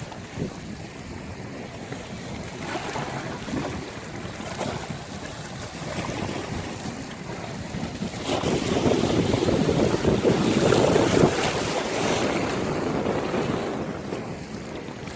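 Sea waves breaking and washing on a beach, a steady rush that swells into a louder surge about halfway through and eases off near the end.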